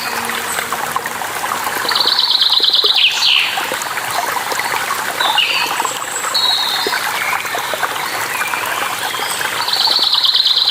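Running water splashing and trickling steadily, with wild birds singing over it: a rapid buzzy trill about two seconds in and again near the end, and scattered short chirps and whistles in between.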